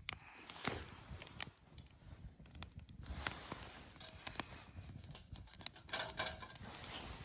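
Irregular clicks, snaps and rustling, as of small things being handled or stepped on.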